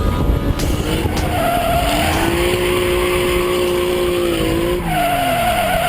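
Car tyres squealing in a drift over engine and road noise. The squeal holds a steady pitch for a couple of seconds, then slides downward, and a higher squeal starts again near the end.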